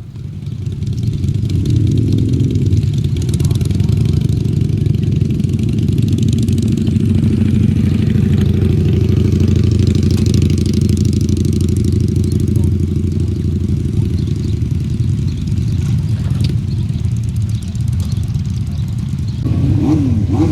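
Motorcycle engine running steadily and loudly, building up over the first second and holding an even note.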